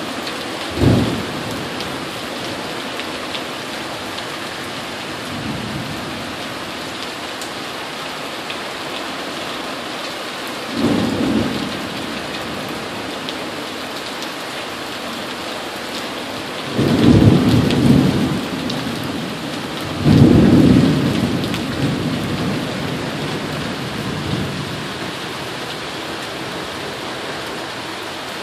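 Heavy tropical-storm rain hissing steadily. Four low rumbling bursts rise over it: a short one about a second in, another about ten seconds later, and two longer, louder ones a little past the middle.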